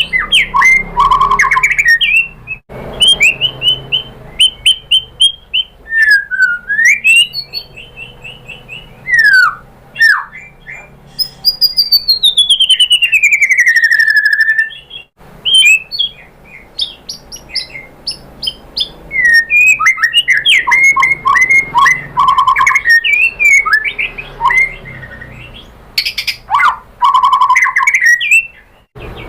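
White-rumped shama singing a varied song: fast runs of loud chirps and trills, broken by a long whistle that slides steadily downward near the middle.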